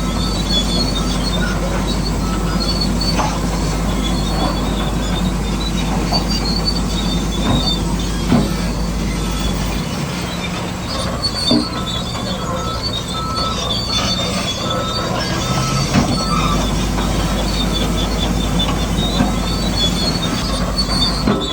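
Radio-controlled model bulldozer and trucks at work: small electric motors and plastic gearboxes whining, with high squeals that come and go and scattered clicks and knocks of tracks and rocks.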